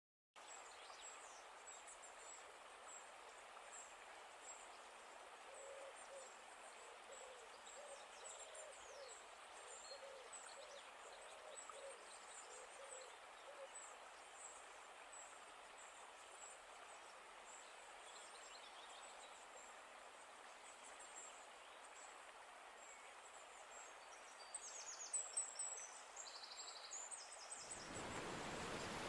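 Faint outdoor ambience with birds: a run of low hooting calls, one after another, in the first half, and thin high chirps throughout. Near the end the background changes abruptly to a louder, steady rush.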